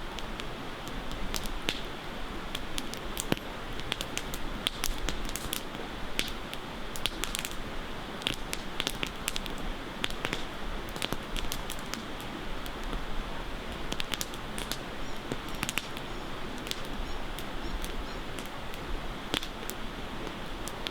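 Campfire crackling: irregular sharp pops and snaps of burning wood, a few of them louder, over a steady hiss.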